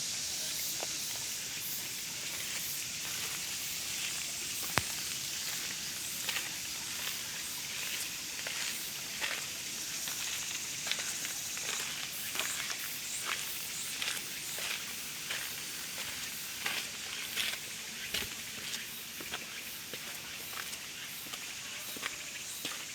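Footsteps on a park path, irregular steps heard as short scuffs over a steady high hiss of outdoor background sound.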